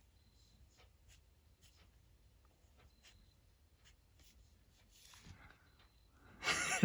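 Pen tip scratching on paper in many short, quick sketching strokes, faint; a louder rustle near the end.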